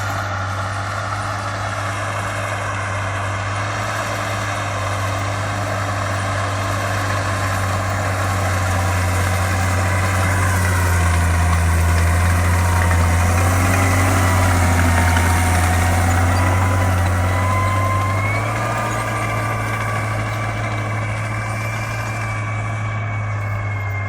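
Mercedes-Benz OM366 six-cylinder diesel engine in a DT-75 crawler tractor, running steadily. It gets louder and slightly higher in pitch for several seconds in the middle, then settles back.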